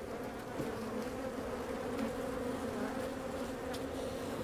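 A swarm of honey bees around an opened hive buzzing steadily, a dense drone with a hum around 250 Hz; the colony is agitated, giving off alarm pheromone.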